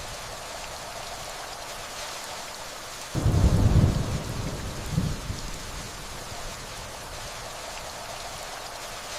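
Steady rainfall with a low rumble of thunder that starts suddenly about three seconds in, swells again briefly a second or so later, then fades back into the rain.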